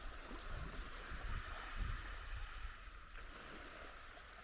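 Wind gusting on the microphone, a low uneven rumble, over a steady hiss of surf on the shore.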